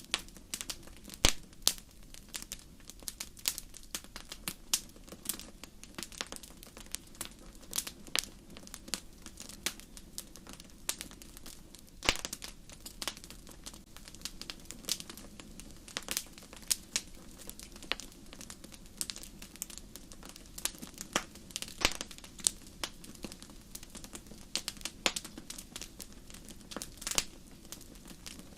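Wood fire burning in a fireplace, crackling and popping irregularly, with a few louder snaps over a low steady rumble of the flames.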